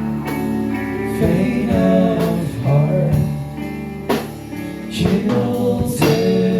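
Live rock band playing: guitar and drum kit, with sustained, bending guitar or vocal notes and regular drum hits.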